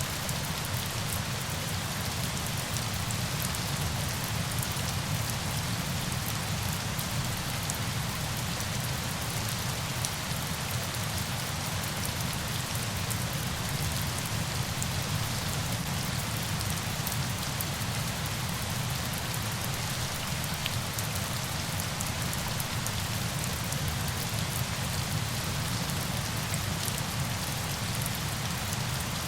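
Steady, unchanging rush of falling water, with a fine patter of drops on top.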